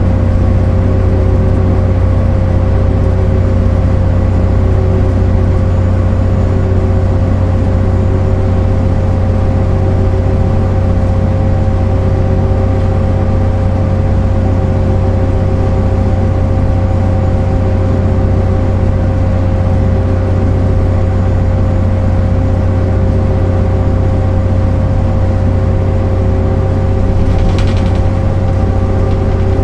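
MAN NL 262 (A10) low-floor city bus's six-cylinder diesel engine running at steady revs, with a steady whine above the engine drone. A brief hiss sounds near the end.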